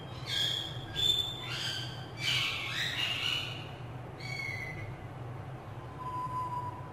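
Background birds calling: about six short, high calls in the first four and a half seconds, then one steady whistle-like note near the end, over a steady low hum.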